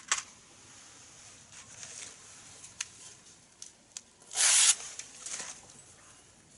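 Scratchy rustling and handling noises with a few sharp clicks, and one loud scratchy rush lasting about half a second, some four and a half seconds in.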